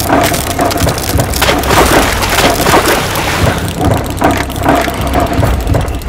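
Old wooden bridge creaking and cracking under a bus's weight: a dense run of wood snaps and splintering over a steady low hum.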